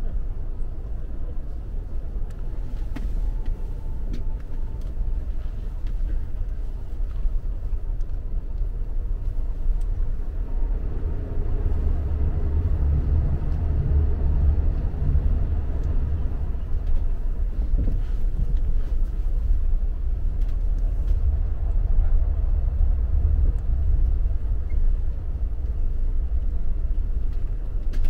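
Inside an AREX all-stop commuter train car running between stations: a steady low rumble of wheels on rails and running gear, a little louder from about ten seconds in.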